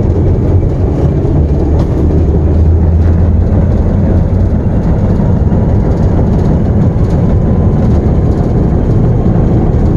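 Diesel locomotive engine running under power in a mid throttle notch, a loud, steady low rumble heard from inside the cab as the locomotive moves.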